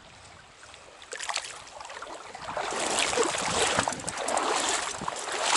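Splashing and sloshing water from a small hooked brook trout being brought in through a stream. It starts with a few light splashes about a second in and grows louder and busier from about halfway through.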